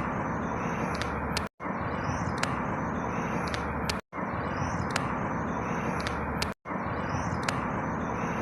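Outdoor ambience, a steady rumbling hiss with faint high chirps and a few clicks, repeating as a short loop about every two and a half seconds, each repeat broken by a brief silent dropout.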